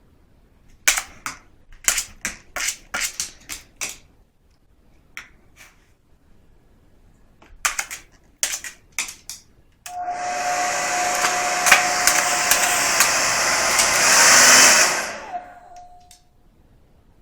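Several bursts of sharp clicks. Then, about ten seconds in, a hair dryer is switched on and runs for about five seconds: a loud steady rush of air with a constant motor whine, swelling just before it is switched off. The whine lingers for a moment as the motor spins down.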